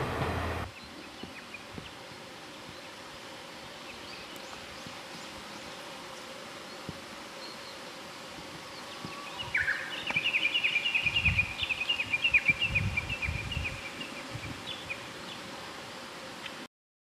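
A louder rumble cuts off just under a second in, leaving a faint steady background. About ten seconds in, a songbird sings a rapid chattering run of high notes for about four seconds.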